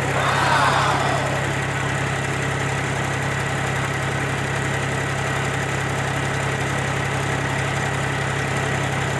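A mini tractor's motor running steadily with a low hum and a thin high whine. Just after it starts, a brief rushing noise rises over it and fades within about a second.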